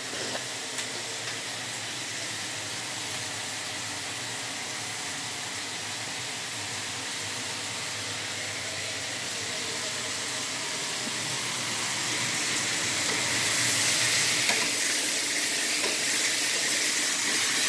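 Sliced bitter melon frying in olive oil in a nonstick pan, a steady sizzle that grows louder about two-thirds of the way through.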